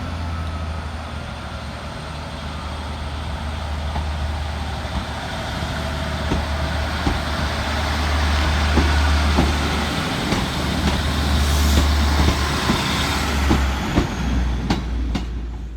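Class 156 Sprinter diesel multiple unit pulling out, its Cummins diesel engines droning steadily and slowly building in loudness, with scattered sharp clicks and knocks over the top.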